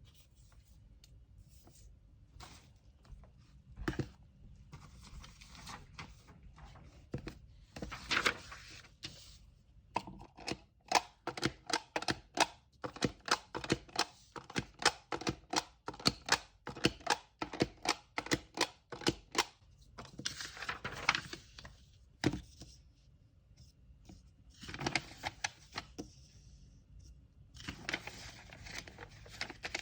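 Packaging paper rustling and crinkling in several bursts as it is handled, with a run of quick, sharp clicks, about three or four a second, for roughly ten seconds in the middle.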